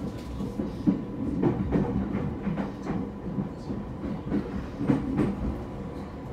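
JR East E231 series EMU heard from inside the passenger car while running. A steady rumble and a faint steady tone are punctuated by an uneven clatter of wheels knocking over rail joints.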